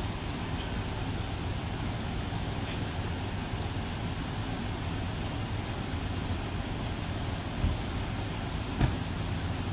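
Steady low rumble of a motor vehicle running, with two short thumps near the end.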